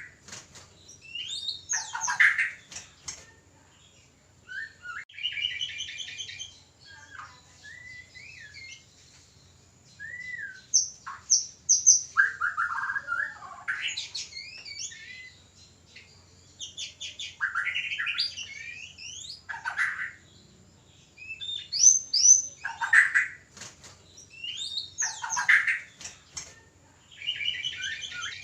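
White-rumped shama (murai batu) song: a varied run of clear whistles, sliding notes, rapid trills and harsher chattering calls, in short phrases every second or two with brief pauses. These are the excited calls of shamas in breeding condition.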